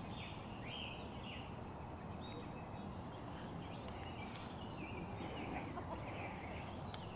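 Birds calling faintly with many short chirps, over a low steady background noise.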